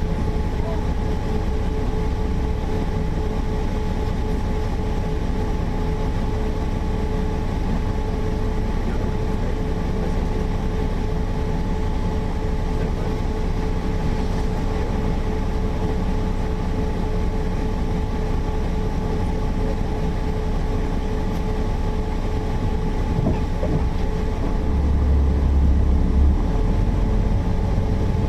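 Mercedes-Benz O408 city bus running, a steady low drone with a constant whine over it; the low rumble swells briefly near the end.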